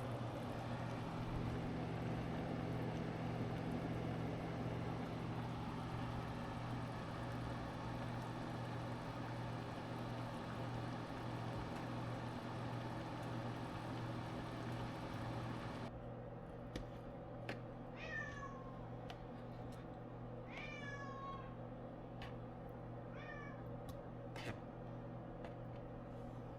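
A steady hum with hiss that cuts off abruptly; then a domestic cat meows three times, each meow falling in pitch, with a few light clicks in between.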